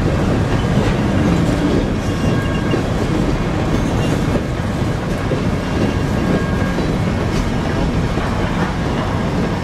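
Herzog ballast hopper cars of a freight train rolling past on steel wheels as the end of the train goes by, a steady rumble.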